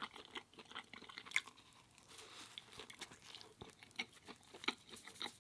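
Close-miked chewing: a scatter of soft, irregular crunches and wet mouth clicks from a mouthful of food.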